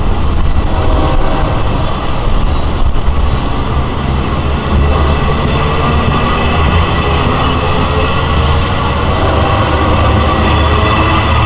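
LIRR train hauled by a DM30AC dual-mode locomotive running on its diesel engine, a steady loud low drone with engine tones, close by the track.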